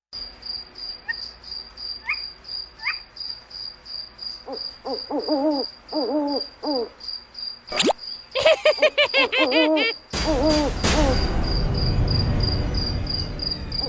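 Cricket-like insect chirping, an even high pulse about three times a second. From about four seconds in, a run of short pitched calls joins it, crowding together around eight seconds, and a loud rushing noise begins about ten seconds in and slowly fades.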